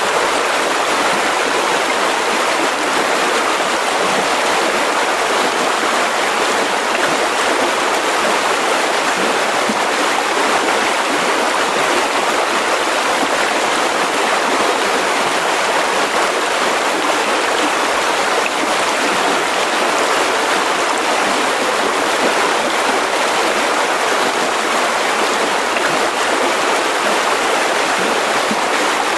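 Mountain river rushing over rocks: a steady, even flow of water with no change.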